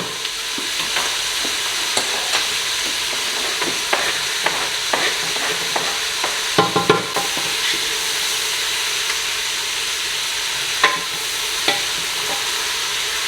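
Chicken, onions and peppers searing in olive oil in a large pot on high heat: a steady sizzle. A cooking utensil knocks and scrapes against the pot now and then, several times in quick succession about two-thirds of the way through.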